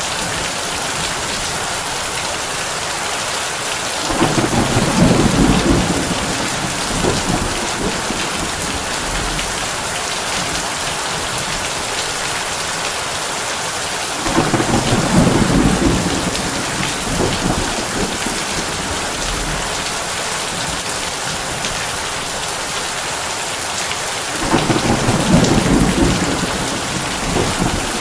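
Heavy rain on a tin roof, a steady hiss, with three rolls of thunder rumbling through it about ten seconds apart.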